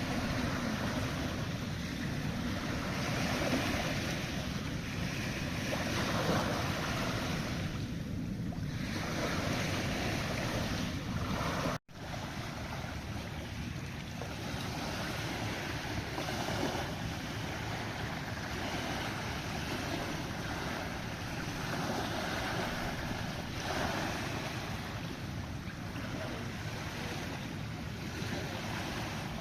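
Wind blowing across the microphone with waves on open sea water, a steady noisy rush. It drops out for an instant about twelve seconds in.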